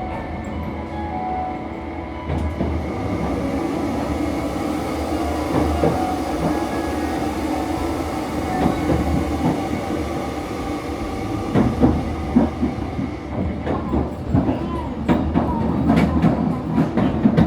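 Passenger train running, heard inside the carriage: a steady rumble with wheels clicking over rail joints. The knocks grow sharper and more frequent in the last several seconds.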